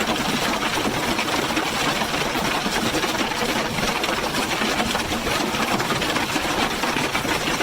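Hail pelting down: a dense, continuous clatter of many hailstones striking in quick succession.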